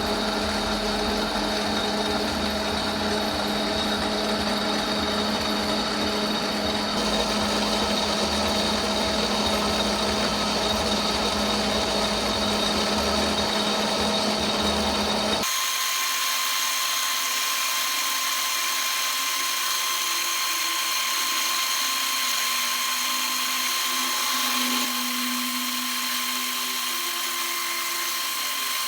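Metal lathe running steadily, with a motor and gear whine. About halfway through, the sound changes abruptly: the low rumble drops out and a steadier, higher whine remains.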